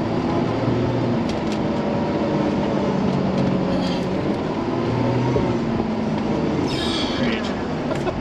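Truck engine running under load while driving in snow, its pitch rising and falling as it is worked. A brief hiss about seven seconds in.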